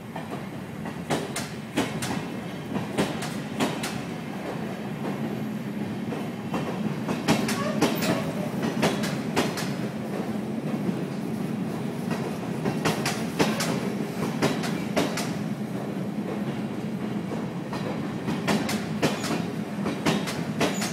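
Passenger train coaches rolling slowly past the platform as the train pulls out, with a steady low rumble. The wheels clack over the track joints in pairs of sharp clicks every few seconds.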